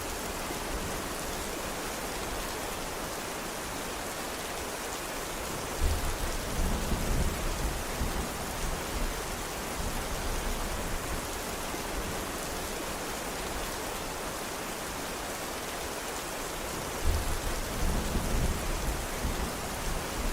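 Steady rain falling, an even hiss. Twice, about six seconds in and again near seventeen seconds, a low roll of thunder starts sharply and rumbles for a few seconds.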